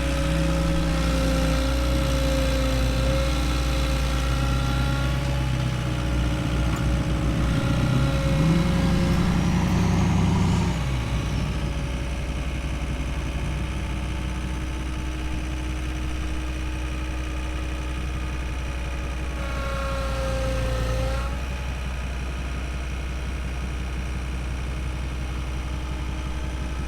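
A vehicle engine idling steadily, rising in pitch and loudness briefly about eight seconds in before settling back.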